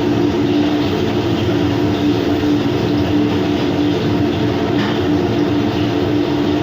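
Steady, loud machinery hum: an even rumble with a constant droning tone that does not change.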